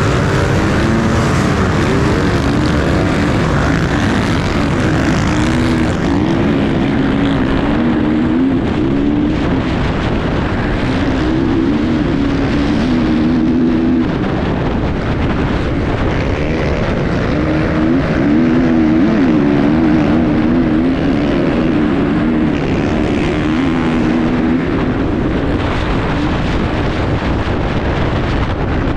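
Enduro motorcycle engine running hard, its revs rising and falling again and again as the bike is ridden, over a steady low rumble.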